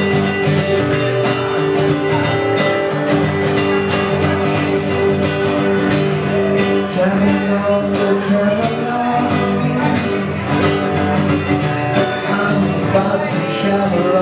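Acoustic guitar music with a steady plucked and strummed rhythm, in a folk or country style.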